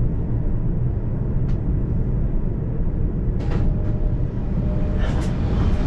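Steady low rumble of a Joban Line commuter train heard from inside the passenger car, with a few short hissing clicks about three and a half seconds in and again near the end.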